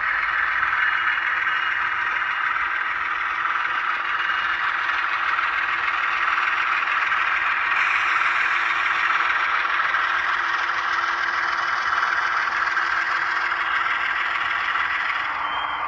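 HO scale ScaleTrains ES44AC model's sound decoder playing a GE GEVO diesel under hard acceleration, with the howl of its AC traction motors, from the model's small on-board speaker. A higher-pitched layer joins about halfway through and fades near the end.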